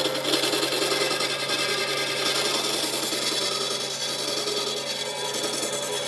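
Wood lathe motor running with a steady hum while a tool scrapes against the spinning wood.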